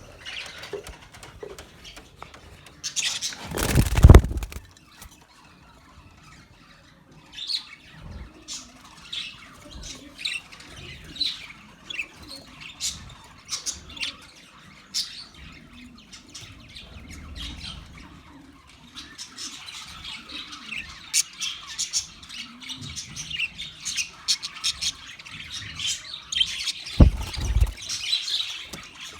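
Budgerigars chirping and twittering in short, high calls that grow busier in the second half. Two loud, brief bursts break in, one about four seconds in and one near the end.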